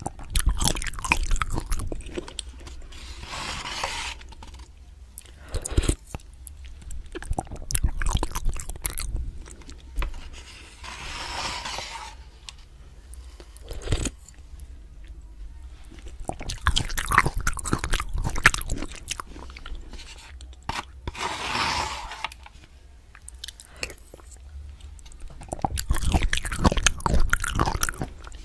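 Close-up mouth sounds of a person eating Maruchan instant noodles: repeated bouts of chewing and biting, with many small wet clicks.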